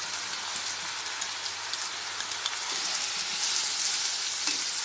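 Prawns in an onion-tomato masala with chilli powder, turmeric and salt sizzling in hot oil in a frying pan. It is a steady sizzle that grows a little louder near the end.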